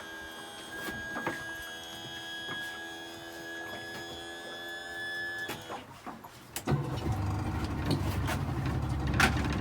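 Held chords of background music for the first five seconds or so. After a short gap, about seven seconds in, a boat's outboard motor starts and runs steadily.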